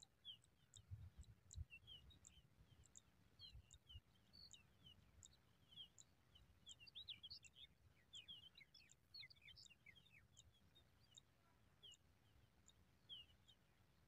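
Faint, high-pitched bird chirps and short twittering notes, busiest in the middle, over a run of evenly repeated very high ticks. A few soft low bumps in the first few seconds.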